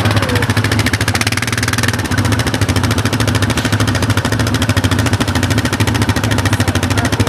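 ATV engine running steadily, with fast, even firing pulses.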